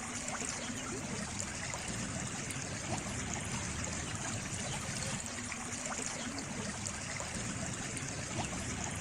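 Water flowing and trickling in a small stream, a steady babble with many small splashes.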